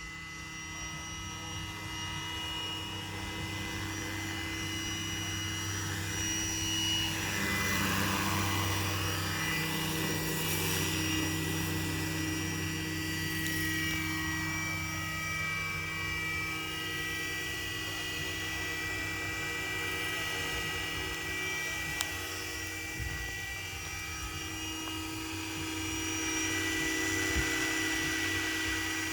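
Scale RC Eurocopter EC135 model helicopter flying, a steady whine of its drive and rotors holding a fairly constant pitch, growing louder a few seconds in.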